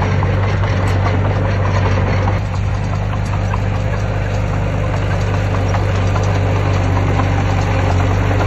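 Heavy diesel engine of earthmoving equipment running steadily with a deep hum, with scattered small clicks and knocks over it.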